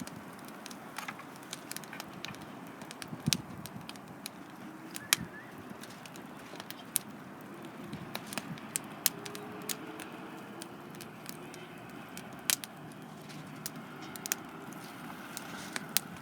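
Wood campfire crackling, with irregular sharp pops and snaps, several a second, over a steady hiss.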